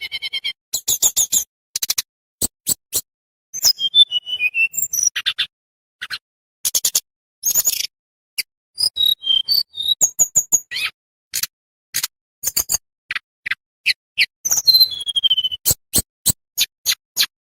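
A tledekan bambu songbird singing: quick runs of dry, sharp chips and ticks, broken by a few short high whistled phrases that fall in pitch.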